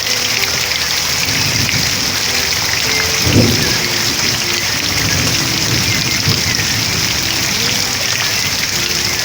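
Steady rain falling, a dense even hiss of drops, with a brief low rumble about three seconds in.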